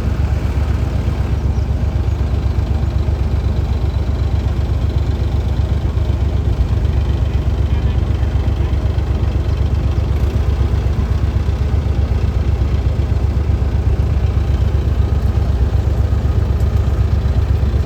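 An engine idling steadily: an even, low rumble with no change in speed.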